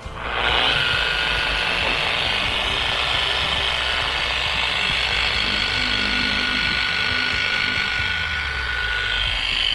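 Electric polishing buffer switched on and running steadily against a metal aircraft exhaust stack, buffing out remaining spots with metal polish; it starts about half a second in with a steady whine.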